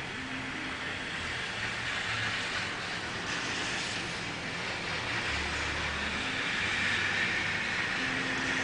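Steady background hiss with a faint low hum underneath, without speech.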